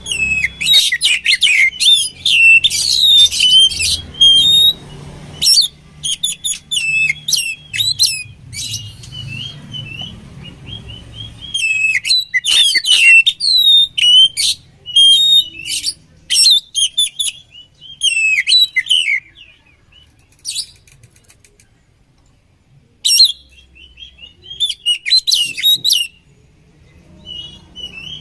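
Oriental magpie-robin (kacer) singing in bursts of rapid, varied chirps and whistles, broken by short pauses and a longer lull about two-thirds of the way through.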